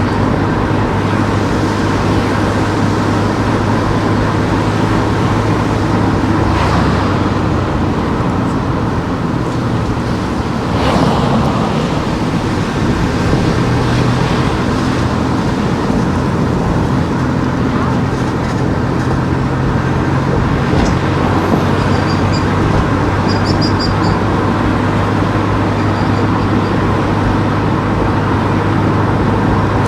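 Car driving through town streets: steady engine hum and tyre noise, the engine pitch shifting a few times, with brief swells of passing traffic.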